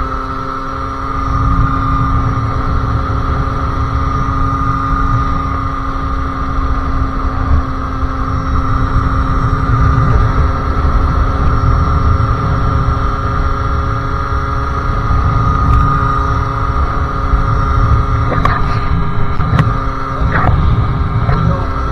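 Sherco SM-R 50cc two-stroke engine, breathing through a KRM exhaust and a Polini CP 17.5 carburettor, running at a steady, fairly high pitch while riding, over a rough low rumble. A few brief clicks come near the end.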